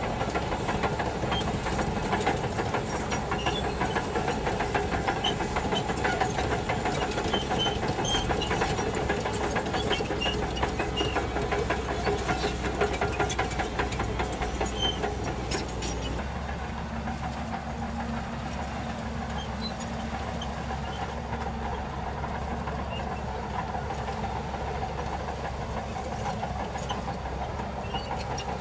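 Shantui DH17 bulldozer's diesel engine running steadily as it works, with faint clicks and clanks over it. About halfway through, the sound changes and drops slightly in level.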